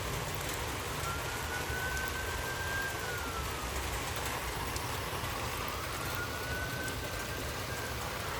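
Emergency vehicle siren wailing, its pitch slowly rising and falling about twice, over steady rain and wind noise.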